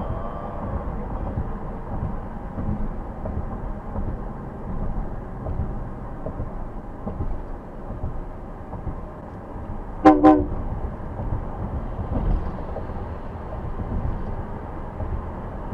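Steady road and engine rumble inside a car moving at highway speed, with one short car-horn honk about ten seconds in, the loudest sound.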